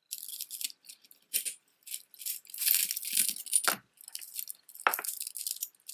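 Jewelry pieces and beads rattling and clinking together as they are handled, in a string of irregular jingling bursts.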